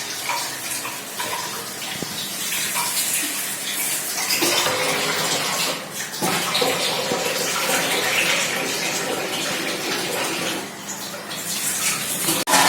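Water running from a tap and splashing into a sink, steady apart from a brief dip about six seconds in.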